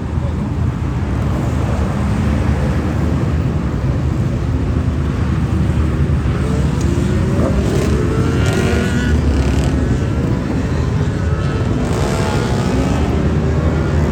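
Motorcycle engines running, with engine notes rising and falling as bikes rev and move off; the sound swells around the middle and again near the end.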